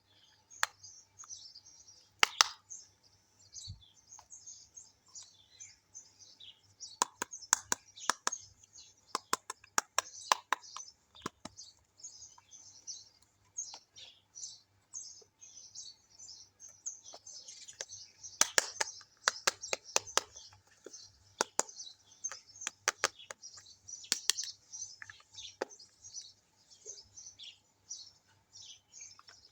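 Sharp clicks and taps of small plastic toy kitchen pieces being handled, coming in clusters, over continuous birdsong chirping.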